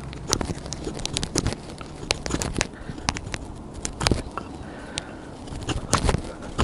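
Irregular sharp crackles and pops from a fire-starter flame burning in a small stainless wood stove, under wood pellets that have not yet caught.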